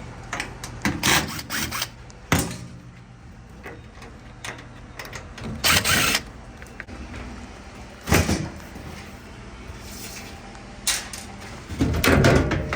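A steady low hum with several separate knocks and clunks over it, one longer rattling clatter about six seconds in and a cluster of them near the end.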